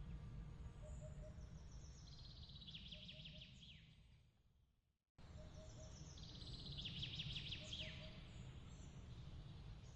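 Faint bird chirps and fast trills with falling notes over a low steady rumble, with a short two-note pip repeating about every second and a half. The sound fades out about four seconds in, drops to silence for a moment, then cuts back in as the ambience loop restarts.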